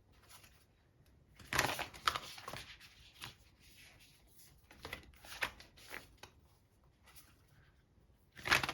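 A deck of oracle cards shuffled by hand: irregular bursts of cards rustling and slapping together, the loudest about a second and a half in and again near the end.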